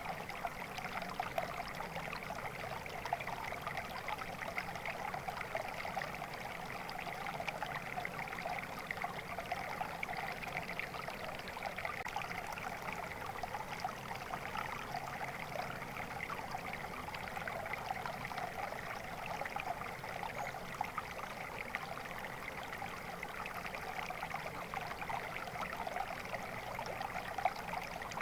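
A small stream of water flowing and trickling steadily, with a busy babbling texture.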